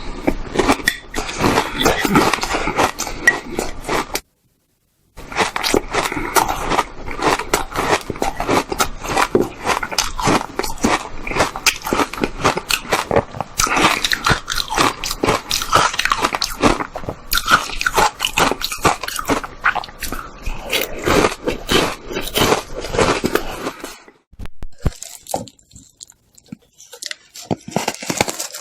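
Close-up crunching, biting and chewing of hard ice by a person eating it, a dense run of irregular crackling crunches. The sound cuts out completely for about a second just after four seconds in, and the crunches come more sparsely near the end.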